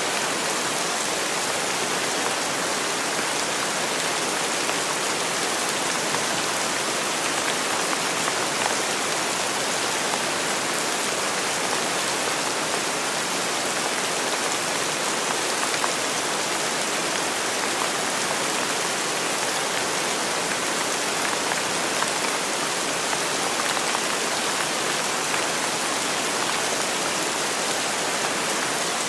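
Steady rain falling, a dense even hiss with faint scattered drop patter.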